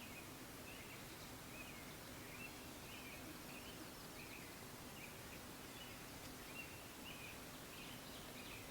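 Faint outdoor ambience with a small bird chirping over and over: short, high calls at the same pitch, coming about once or twice a second over a soft steady hiss.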